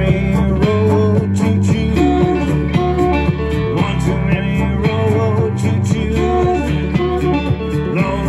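Live band playing a blues-style jam: guitar lines with bent notes over a steady bass and drum beat.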